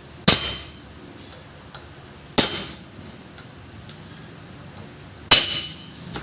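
Three sharp metal-on-metal hammer blows, about two to three seconds apart, each ringing briefly, with a few faint taps between. The blows seat the axle's lock in its guide slot so it won't back out.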